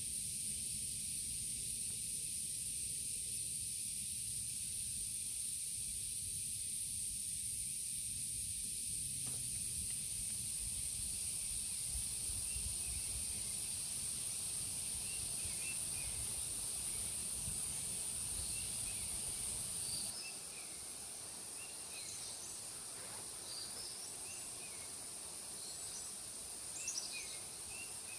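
Forest ambience: a steady high insect drone, like cicadas or crickets, with small birds chirping now and then from about halfway through. A low rumble under it drops away about two-thirds of the way in.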